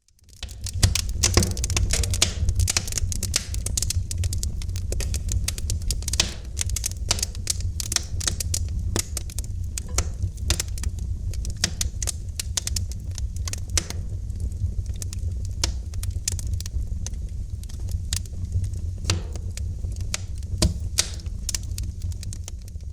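Wood fire in a fireplace crackling, with many irregular sharp snaps and pops over a steady low rumble. It rises in over the first second and runs on at an even level.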